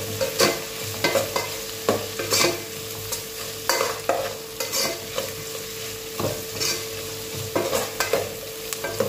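Onions and garlic sizzling in hot oil while a metal spoon stirs them, scraping and knocking against the pot about every half second.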